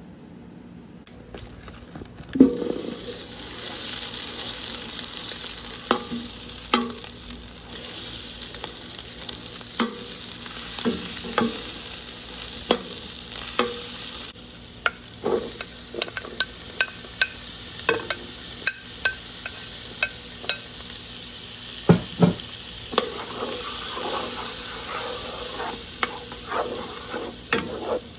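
Food sizzling in a hot pan, starting with a loud clack about two seconds in, with a utensil repeatedly tapping and scraping against the pan as it is stirred.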